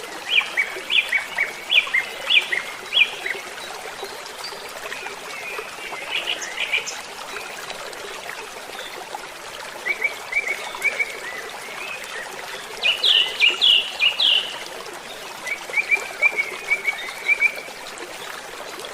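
Running water trickling steadily, with songbirds singing over it in short bursts of quick repeated chirping notes every few seconds. The loudest burst comes about two-thirds of the way through.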